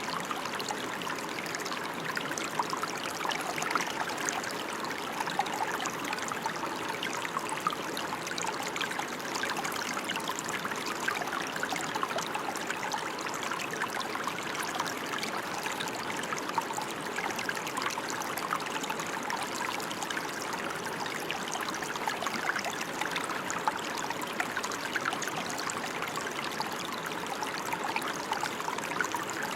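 Steady rain falling, an even hiss of many fine drops that does not change.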